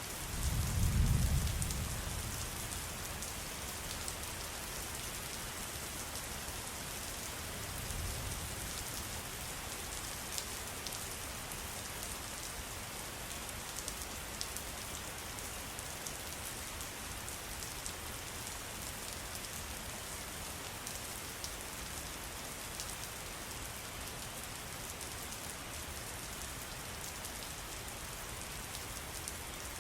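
Steady rain pattering, with many small drops ticking against the hiss. A brief low rumble swells about a second in.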